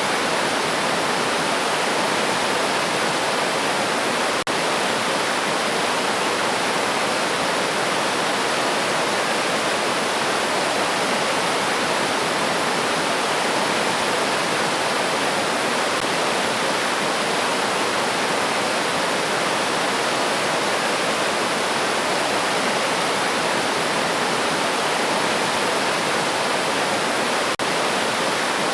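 River water rushing and splashing steadily over stones, an even unbroken rush.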